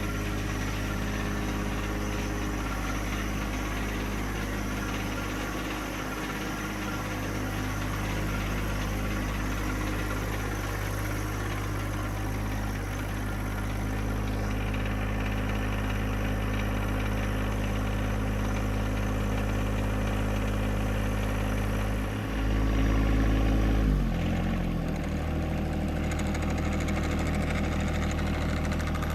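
John Deere 1025R compact tractor's three-cylinder diesel engine running steadily. About twenty-two seconds in it gets louder for a couple of seconds, then the engine note drops to a lower speed and holds there.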